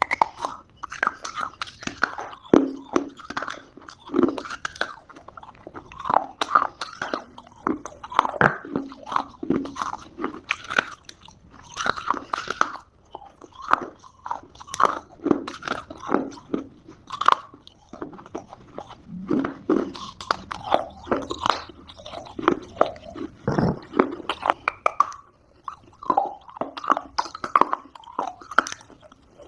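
A person biting and chewing chunks of Multani mitti (fuller's earth clay): irregular dry crunches, several a second.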